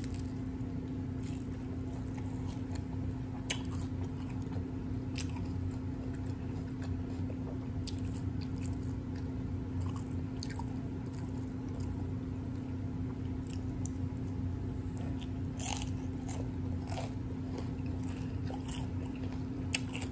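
Close-up chewing and biting of crunchy hard-shell tacos, with irregular crisp crunches of the fried shells and wet chewing, over a steady low hum.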